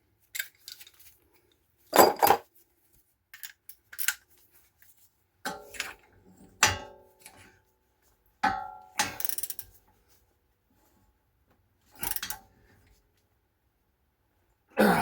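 Steel hand tools, a large torque wrench and its socket, clinking and clanking as they are handled: about eight separate knocks spread out, several with a short metallic ring.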